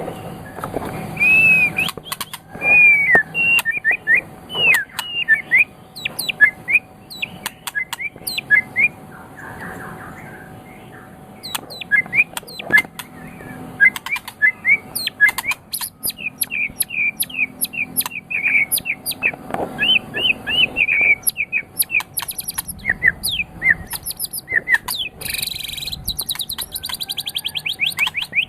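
White-rumped shama (murai batu) singing a long, varied run of whistled phrases mixed with sharp chips, and a fast trill near the end.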